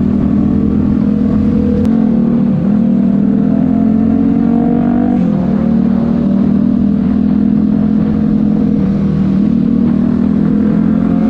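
Supermoto motorcycle engine running at a steady cruising pitch while riding, heard from the rider's own bike. The pitch dips briefly and recovers three times, about two and a half, five and nine and a half seconds in.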